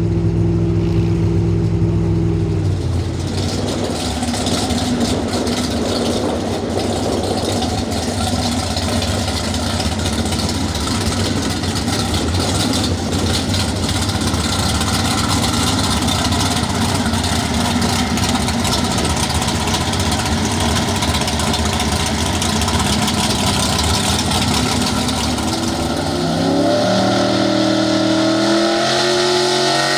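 A pro stock 4x4 pulling truck's engine running hard at high revs: a steady tone for the first couple of seconds, then a rough, noisy run, with the pitch climbing in steps near the end.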